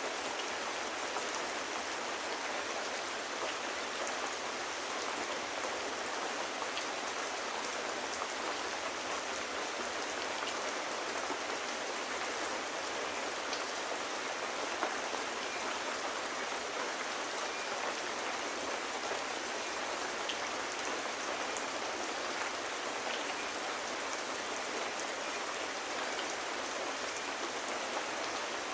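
Steady rain: an even hiss with scattered faint ticks of individual drops.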